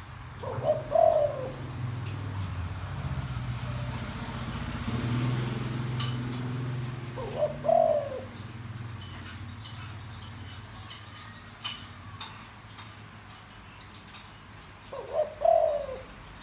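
A spotted dove cooing: three short, deep-voiced calls about seven seconds apart. A low hum lies underneath through the first part.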